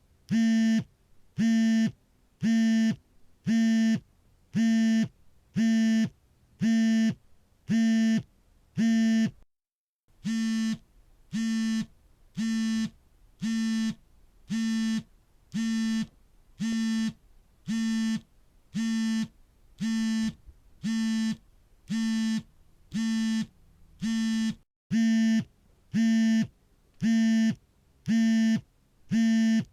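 Smartphone vibrating for an incoming call, its vibration motor buzzing in a steady on-off pattern of short buzzes about once a second. The pattern stops for a moment twice, about a third of the way in and again near the end, then carries on.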